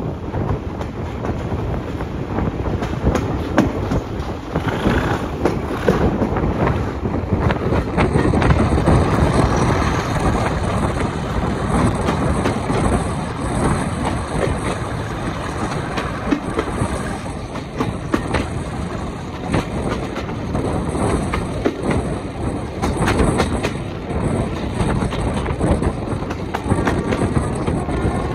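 Diesel-hauled passenger train running, heard from an open coach window: a steady rumble of wheels on rails, many clicks as the wheels cross rail joints, and wind on the microphone.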